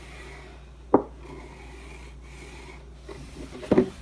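Sharpie marker rubbing across a cardboard carton as lines are drawn on it, with a sharp knock about a second in and a few lighter knocks near the end.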